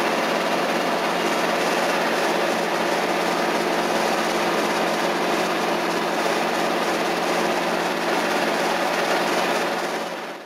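Robinson R22 helicopter running, its Lycoming O-320 four-cylinder engine and rotors making a steady, dense noise with a few steady tones in it. It cuts off suddenly at the very end.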